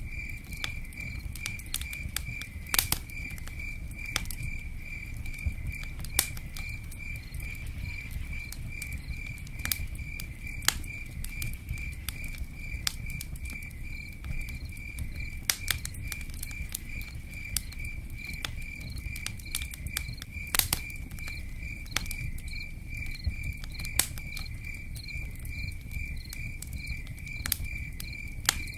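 A cricket chirping in a steady, even pulse throughout, over a low rumble and scattered sharp pops and ticks of a crackling campfire.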